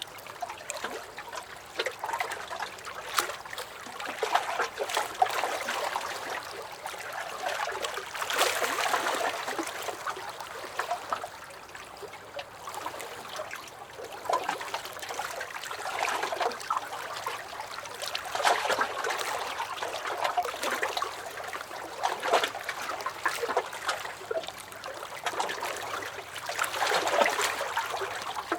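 Small lake waves lapping and sloshing against a dock, in uneven swells every few seconds with many small splashes and gurgles between them.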